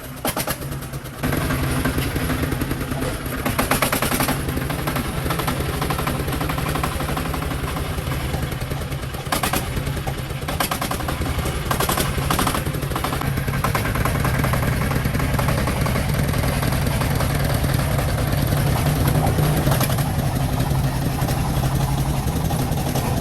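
The four-wheeler's engine running loudly and steadily with a rapid, knocking firing beat, settling into its run about a second in.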